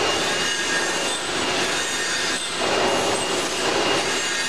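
Palmary FCL-12-3 CNC centerless grinder running: a steady grinding hiss of wheel on metal, with thin high whining tones held through it.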